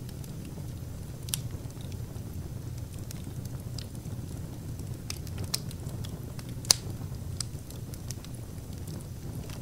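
Wood fire burning in a fireplace: a steady low rush of flames with scattered sharp crackles and pops, one loud pop about two-thirds of the way through.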